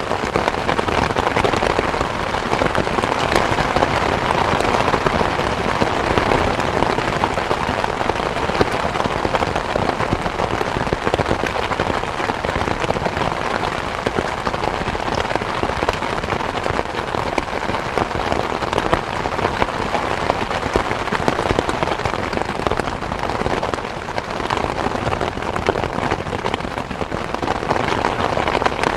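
Steady rain falling on a surface, a dense, even patter of drops that holds the same level throughout.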